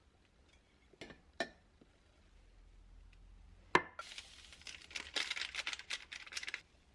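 Small handling sounds: two light clicks, then a sharp clink or knock. It is followed by about two and a half seconds of crinkling, like packaging being rustled or torn open.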